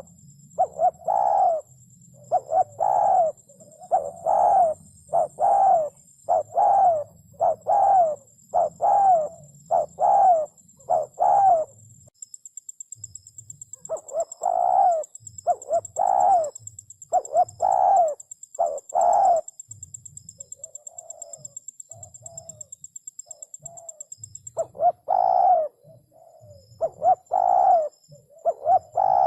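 Spotted dove cooing: a long series of short coos in quick phrases. There is a brief pause about twelve seconds in, softer coos a little after the middle, and louder coos again near the end. A thin, steady high-pitched whine runs in the background through most of it.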